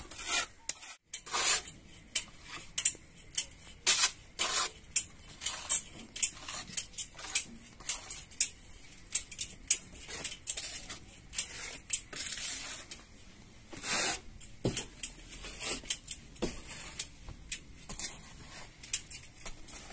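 Irregular short scraping and tapping sounds of hand work on walls or a ceiling, a quick run of brief strokes with a few louder ones.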